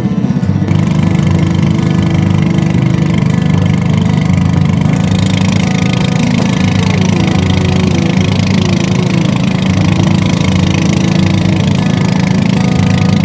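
A small engine running steadily under load, with a fast, even pulse.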